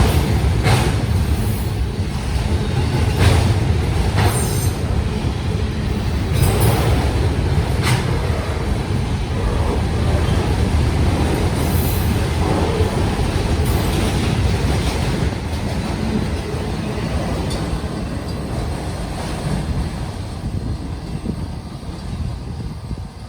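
Union Pacific autorack freight train rolling past: a steady low rumble with sharp wheel clicks in the first several seconds, growing quieter over the last several seconds.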